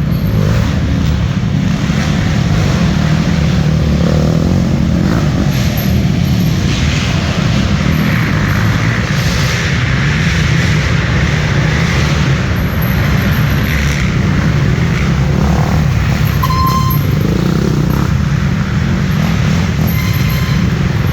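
Dirt bike engines running as riders pass on the course, over a loud, steady low rumble; the engine noise swells from about eight seconds in and eases off a few seconds later.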